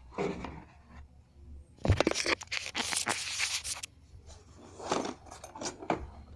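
Packaging being handled and torn open: a loud ripping rush of noise lasting about two seconds, starting about two seconds in, with scattered clicks and rustles around it.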